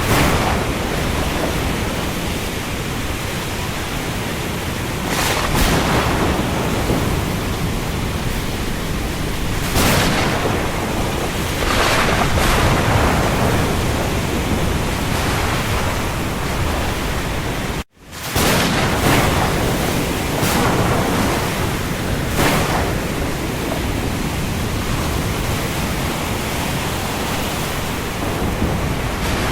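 Steady rain over the sea, with surges of wind and waves swelling up every few seconds. The sound cuts out for an instant about eighteen seconds in, then resumes.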